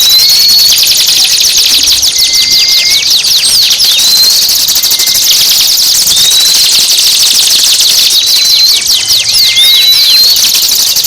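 Recorded songbird song: a dense, fast chattering trill with a short rising whistle that repeats every two seconds or so.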